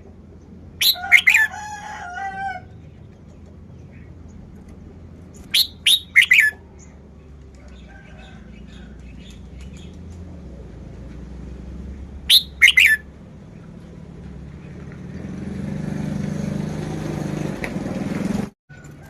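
Red-whiskered bulbul singing three short, loud whistled phrases several seconds apart, each a quick run of sweeping notes. Between them a faint background noise rises toward the end and cuts off suddenly.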